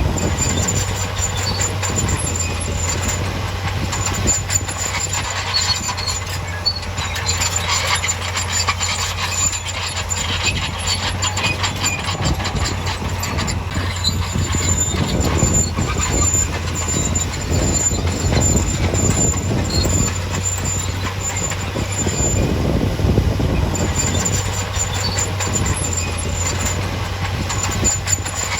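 Heavy earthmoving machinery at work: a diesel engine running steadily under a constant clatter of metal, with a thin high squeal that comes and goes.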